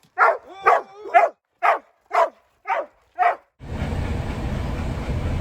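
Dogs barking excitedly: seven sharp barks, about two a second, which stop abruptly about three and a half seconds in and give way to a steady low rumbling noise.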